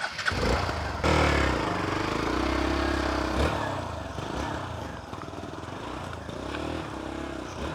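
Hero Xpulse 200 4V's single-cylinder engine revving as the bike is ridden through mud. It is loudest from about a second in, with the revs rising and falling, then fades as it pulls away, picking up briefly again near the end.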